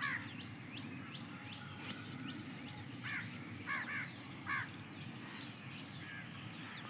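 Outdoor bird calls: short harsh calls, one at the start and four more between about three and four and a half seconds in, over steady high chirping from small birds.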